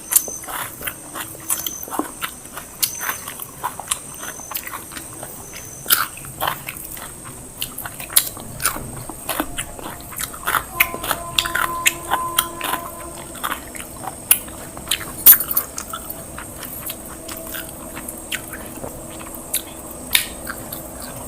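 People chewing and biting mouthfuls of biryani and salad close to the microphone: irregular wet smacking and crunching clicks, several a second.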